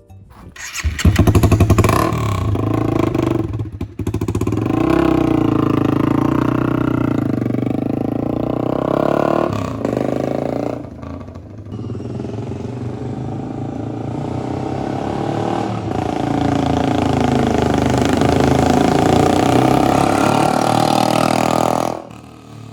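Honda CBR250R single-cylinder motorcycle engine running, its pitch rising and falling with the throttle, dropping back a little after the middle and building again before it cuts off shortly before the end.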